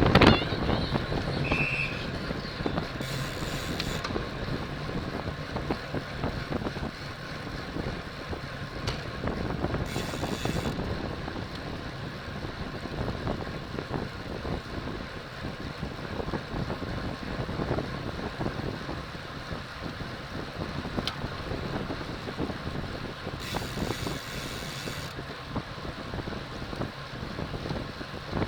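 Wind buffeting a bicycle-mounted camera's microphone during a criterium race at speed, mixed with tyre and road noise, with a few brief stretches of higher hiss.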